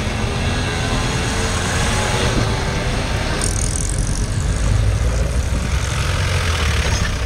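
A motor vehicle's engine running steadily, with a low rumble. The sound changes abruptly about three and a half seconds in.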